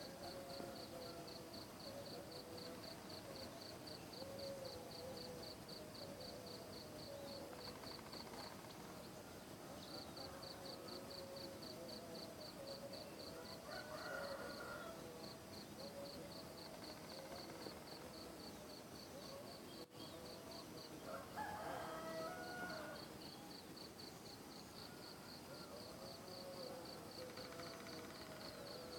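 An insect in a tree giving a rapid, regular high ticking chirp in long runs with short breaks, the strange sound the tree seems to make. A rooster crows faintly twice in the background.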